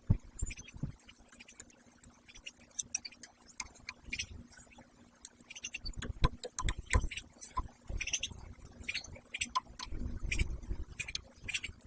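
Irregular light taps, clicks and scratches, with a few dull thumps in the second half: pileated woodpeckers pecking and clambering on wood.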